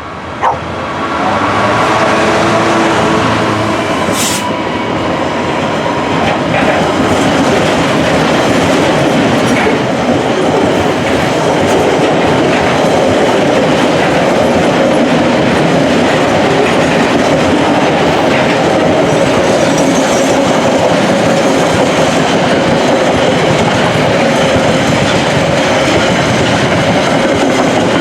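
A train passing at close range: a loud, steady rush of wheels running on the rails that builds over the first two seconds and then holds, with a sharp click about half a second in.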